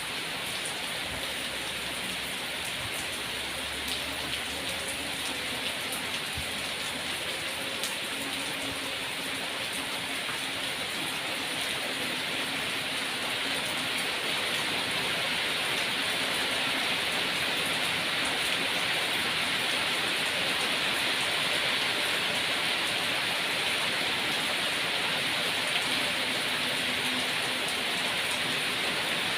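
Steady rain falling, a dense even hiss with scattered drop ticks, growing slightly heavier about halfway through.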